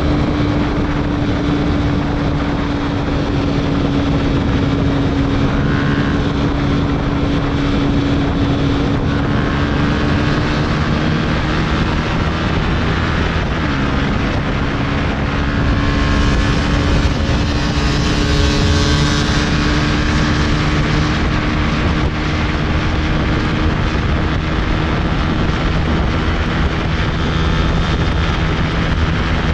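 125 cc sport motorcycle with a full Arrow exhaust system and dB killer, running under way. The engine note holds steady, then dips in pitch about halfway through and stays steady again.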